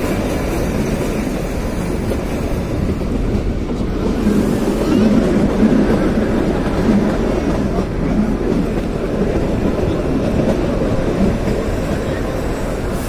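Kalka–Shimla narrow-gauge toy train running along the track, heard from inside a passenger coach: a steady rumble of wheels and coaches that swells a little louder about four seconds in.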